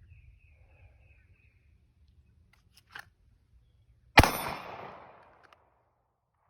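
A single 9mm pistol shot from a Glock 19X: one sharp crack about four seconds in that rings out and dies away over about a second. A short, fainter knock comes a second before it.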